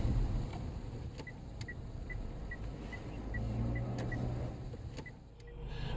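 Low vehicle rumble heard from inside a car through a dashcam, with a light, regular ticking about two to three times a second for a few seconds and a few single clicks.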